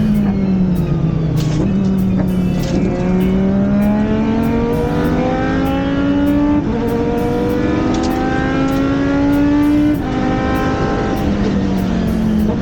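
Dinan BMW V10 of a Riley Daytona Prototype race car under way on track: the engine note drops at first, then climbs under acceleration through two upshifts, about a third and three quarters of the way through.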